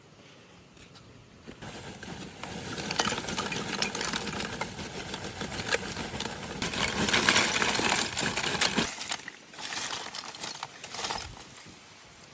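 Rapid clattering and scraping, dense with small clicks, building up about a second and a half in and stopping about nine seconds in, followed by two shorter bursts.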